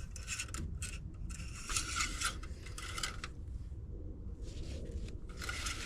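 Engine oil dipstick scraping and rattling as it slides in and out of its metal tube, in a run of short rubs with a pause near the middle.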